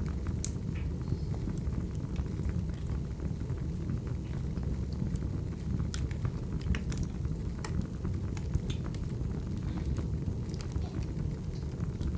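Wood fire burning: a steady low rumble with scattered sharp crackles and pops from the burning logs.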